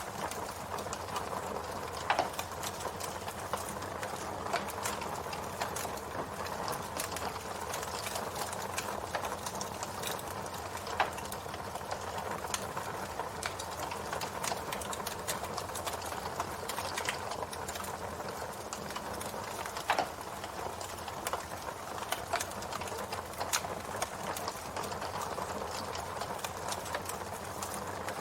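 Campfire burning: a steady hiss of flames with frequent small crackles and a few louder pops.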